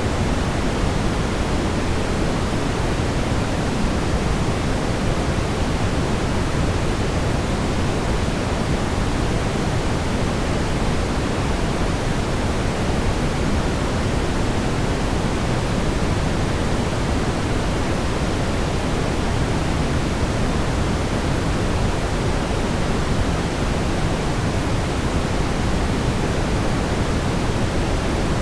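Steady brown noise: an even, deep rumbling hiss, strongest in the low end, with no change.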